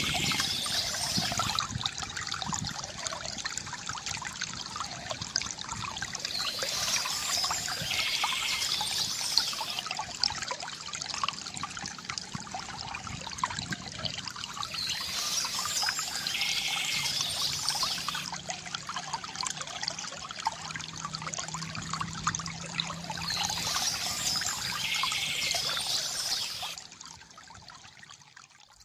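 Water trickling and pouring steadily from a bamboo fountain spout, swelling a little about every eight seconds. The sound drops away sharply near the end.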